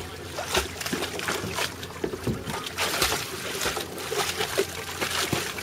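Irregular light knocks and clicks from a kayak being handled, likely its adjustable foot braces being set, with water trickling and sloshing against the hull.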